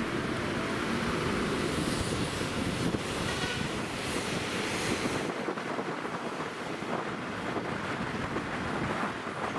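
Wind rushing over the microphone of a moving motorcycle: a steady, dense noise with no clear engine tone, easing a little in the deepest and highest parts about five seconds in.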